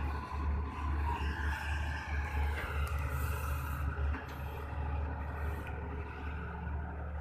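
Heavy diesel earthmoving machinery running under load: a steady low engine drone with a whine that wavers up and down, and a short scraping noise about three seconds in.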